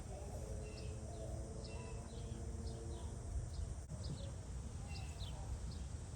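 Birds chirping outdoors: many short, high chirps repeated throughout, over a steady low rumble.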